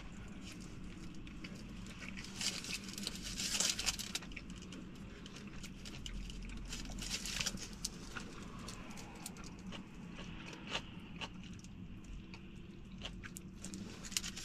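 A person chewing a mouthful of burrito, with small wet clicks and now and then a rustle of its aluminium foil wrapper, over a steady low hum.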